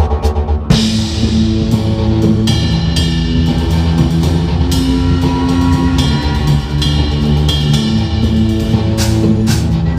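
Drum kit played along with a backing track of bass and guitar; the full groove comes in with a cymbal crash just under a second in, and the drums then keep a busy beat over the track.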